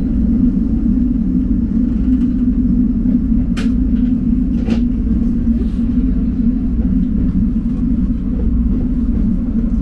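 JR Hokkaido H100 diesel-electric railcar running, heard from inside near the cab: a steady low engine drone with track rumble. Two sharp clicks come about three and a half and four and a half seconds in.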